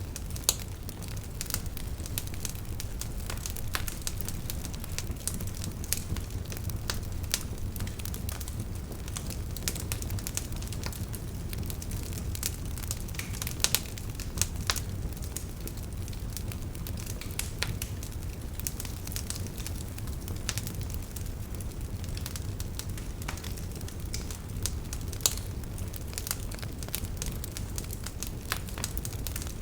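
Campfire burning: a steady low rumble of flames with irregular sharp crackles and pops of burning wood, a few louder pops standing out.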